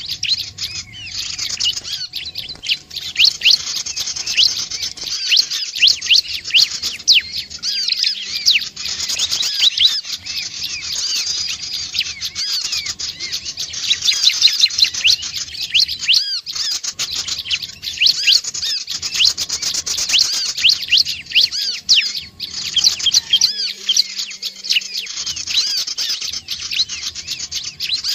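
Prinia (ciblek/prenjak) calling: a continuous, rapid stream of sharp, high chirping notes that repeat several times a second.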